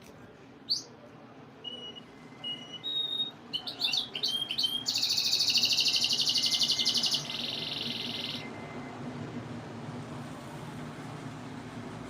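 Domestic canary singing: scattered high single notes and a quick run of chirps build into a loud, fast trill, which switches to a second, slower trill about seven seconds in and then stops. A steady low hum runs beneath and becomes more noticeable after the song stops.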